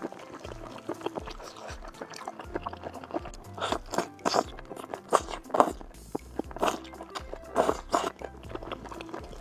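Close-up crunching and biting as seafood is eaten, with sharp crunches at irregular intervals, over background music.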